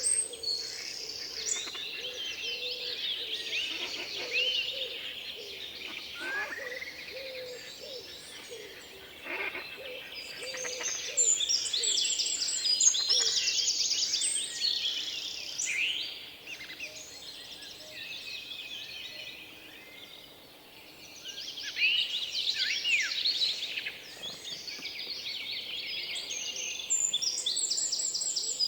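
Several small birds chirping and singing over one another, with fast high trills and short sweeping calls. The chorus thins for a few seconds past the middle, then builds again.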